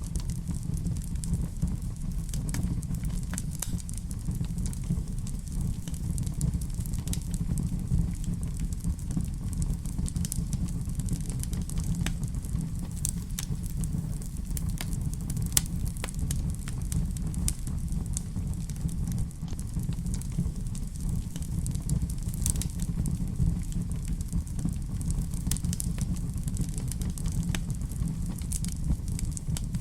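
Wood fire burning in a fireplace: a steady low rumble of flames with frequent irregular crackles and pops, one louder pop about halfway through.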